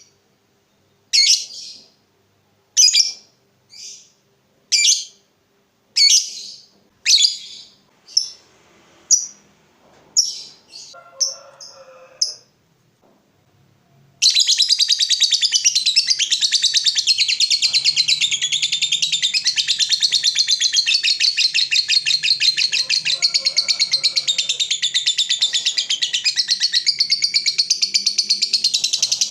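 Lovebird calling: short sharp chirps about once a second for the first twelve seconds, then, after a brief pause, a long unbroken rapid chattering trill (the lovebird's 'ngekek').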